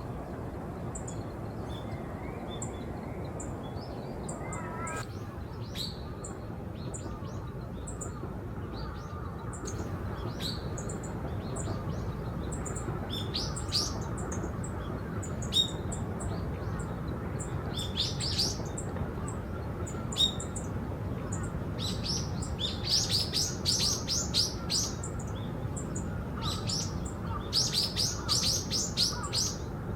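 Small songbirds calling: thin, high, single chirps scattered throughout, and in the second half repeated bursts of rapid chattering notes, the loudest sounds here. A steady low background rumble runs underneath.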